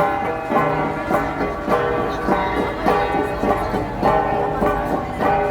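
Ensemble of flat bronze gongs (gangsa) struck in a steady, repeating rhythm of about two strokes a second, each stroke ringing on.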